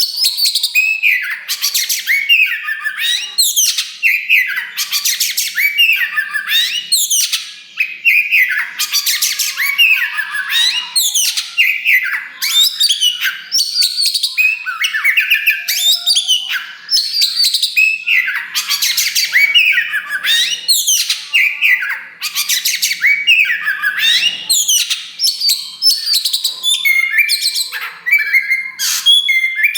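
Oriental magpie-robin of the black kacer wulung form singing loudly and without pause: a fast, varied stream of whistled phrases, quick up-and-down notes and harsh chattering.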